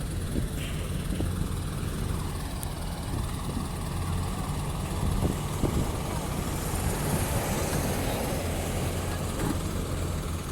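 Diesel engine of an FR210 excavator running steadily, a low drone, with a few light knocks around the middle.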